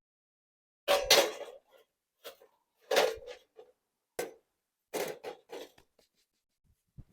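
A series of short knocks and clatters, about half a dozen spaced a second or so apart, as of hard objects such as camp gear or cookware being handled and set down.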